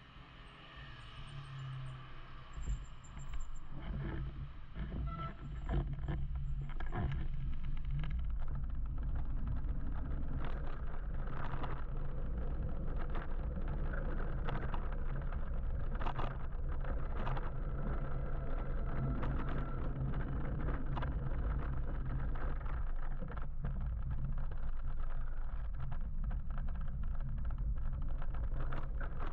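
Wind rushing over the microphone of a moving electric motorbike, with road traffic around it, growing louder over the first six seconds as the bike picks up speed and then holding steady. Short clicks and knocks come and go.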